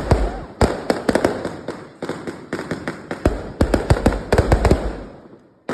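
Fireworks going off in rapid volleys of sharp cracks and pops, with a low rumble under each volley. The crackling dies away near the end.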